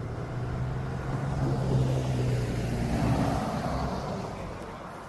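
A motor vehicle driving past, its engine hum swelling to a peak midway and then fading.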